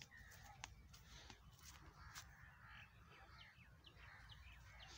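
Faint outdoor rural ambience with a few short bird chirps in the second half.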